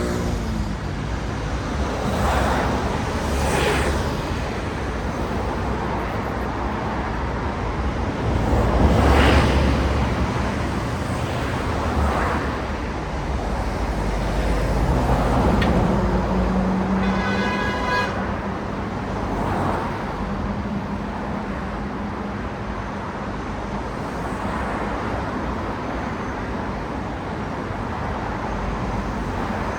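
City street traffic: a steady rush of road noise with cars passing one after another, the loudest about nine seconds in. Just past the middle a short horn toot sounds over a low steady engine hum.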